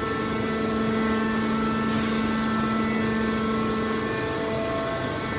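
Steady machine hum: a constant drone with a whine above it, unchanging throughout, typical of a running baler's motor and hydraulic pump.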